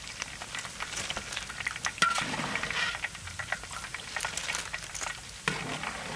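Chicken legs deep-frying in hot oil: a steady sizzle dotted with many small crackling pops, with a sharp knock about two seconds in.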